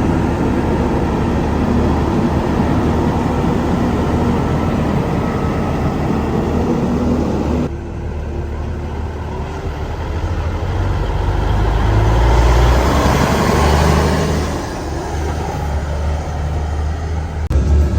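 Vintage trucks driving past with their engines running. The sound changes abruptly about eight seconds in, then an engine grows louder and revs before easing off.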